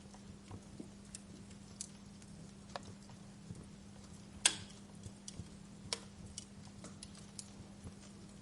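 Wood fire in a fireplace crackling: scattered sharp pops and ticks, with one loud pop about four and a half seconds in and another about six seconds in.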